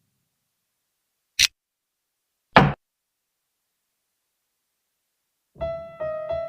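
Two sharp clacks of xiangqi pieces being set down, a little over a second apart, followed near the end by piano-like background music.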